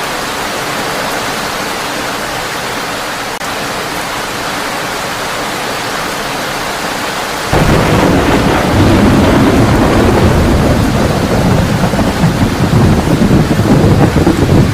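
Heavy rain drumming on a tin roof, a steady hiss, until about halfway through, when a loud rumble of thunder cuts in suddenly and keeps rolling over the rain.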